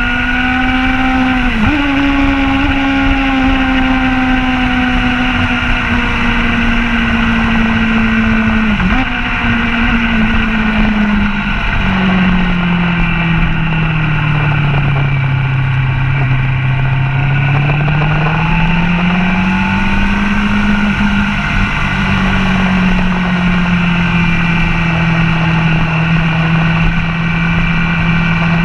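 Motorcycle engine heard from the bike itself while lapping a track, its pitch drifting steadily with two brief sharp jumps early on, then sinking low and rising again with the throttle. Wind rushes over the microphone throughout.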